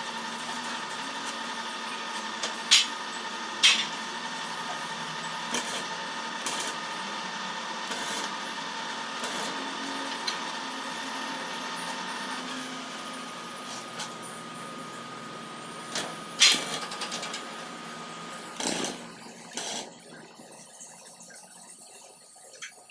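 Workshop machinery running with a steady hum and hiss that carries a few held tones, which stop about halfway through. A few sharp metallic knocks come through, two near the start and two later on. The sound gets quieter near the end.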